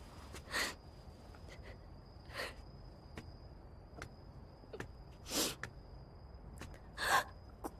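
A person sniffling and catching their breath in short, sharp breaths, about four of them a second or two apart, as in quiet crying. A faint steady high tone and a low hum sit behind.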